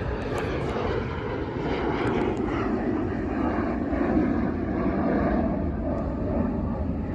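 Engines of an American Eagle regional airliner passing the airport, a steady, even jet noise.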